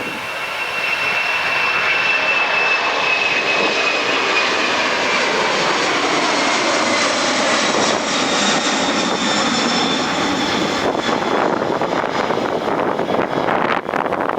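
Jet airliner passing close by: a loud, steady engine roar with a high whine that slowly falls in pitch as the aircraft goes past.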